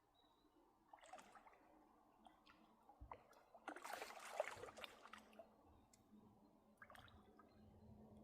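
Faint splashing and sloshing of water, loudest in the middle, with a few light knocks around it.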